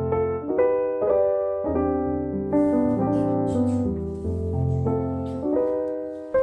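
Background piano music: a gentle melody of held, overlapping notes that change about every half second to a second.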